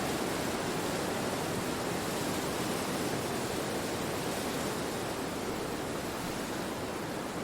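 Wind rushing steadily through forest trees, an even unbroken hiss with no birdsong standing out.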